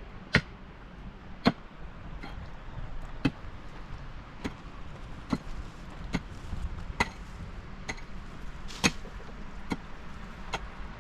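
Sharp knocks repeated about once a second over a steady low rumble.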